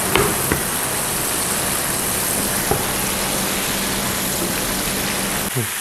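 Battered squid rings deep-frying in hot oil: a steady sizzle, with a few small pops.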